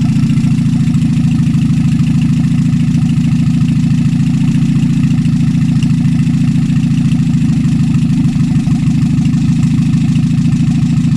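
Freshly rebuilt Morris Minor 948cc A-series four-cylinder engine running steadily at an even idle on its first run, with no revving or change in speed.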